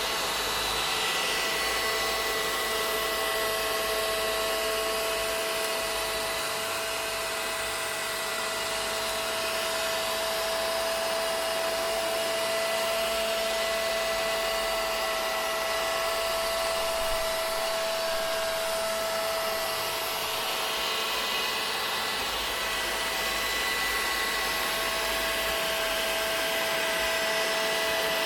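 Vacuum cleaner motor running steadily, a constant whooshing hiss with a steady hum on top.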